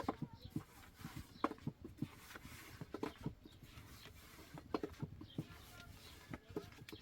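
Irregular light clicks and knocks, several a second, with no steady sound beneath them.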